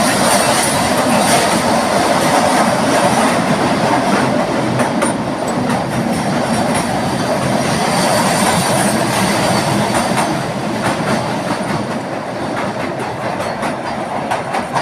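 Kalka–Shimla narrow-gauge toy train running, its wheels rumbling and clicking steadily over the rails.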